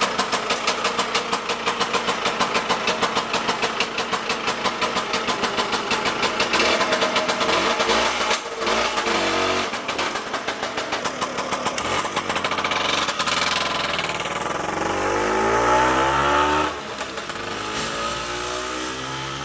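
Lambretta Silver Special's single-cylinder two-stroke engine running with a fast steady pulse, then revving, its pitch rising around the middle and sliding back down in the last few seconds.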